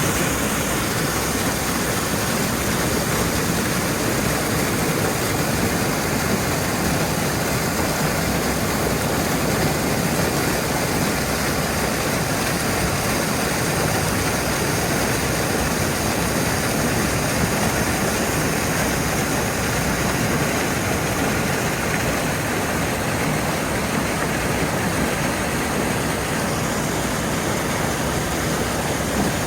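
Small waterfall on a creek, water falling and rushing in a steady, loud, unbroken roar of noise.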